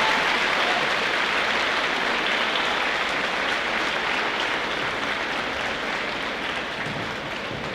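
An audience clapping, the applause slowly dying down.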